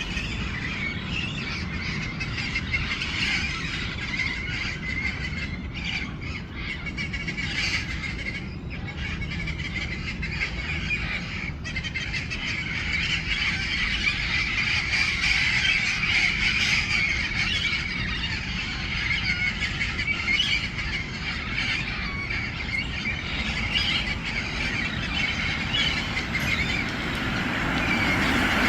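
A flock of parrots squawking, many calls overlapping, over a steady low rumble that grows louder near the end.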